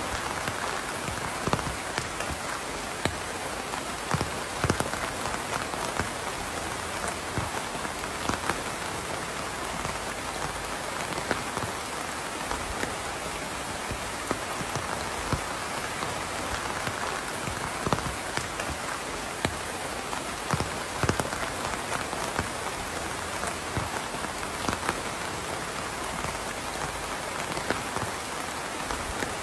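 Steady rain falling, an even hiss with many scattered drops pattering close by on a hard surface.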